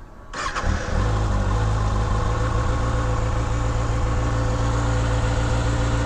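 Kawasaki Ninja ZX-6R inline-four engine catching about half a second in and settling into a steady idle.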